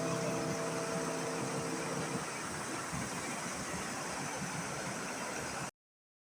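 Steady rushing of waterfall water. The last sustained notes of background piano music run over it and stop about two seconds in. The sound then cuts off abruptly to dead silence shortly before the end.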